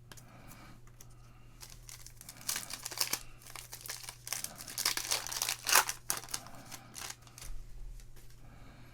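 Plastic or foil wrapper of a basketball trading card pack crinkling and tearing as it is ripped open, in a run of crackles, the loudest near the middle.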